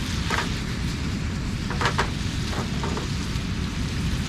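Tuna frying in butter and saké in a pan, sizzling steadily over a steady low rumble, with a few short sharp sounds around two seconds in.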